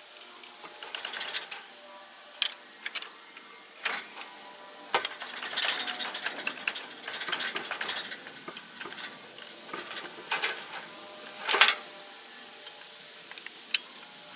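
Hand tools working on metal parts: irregular clicks, ratcheting and short scrapes, with a sharper metallic clatter about two thirds of the way through.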